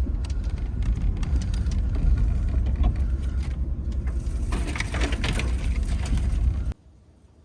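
Truck travelling under tow over a rough, snowy trail: a steady low rumble with scattered knocks and rattles, cutting off suddenly near the end.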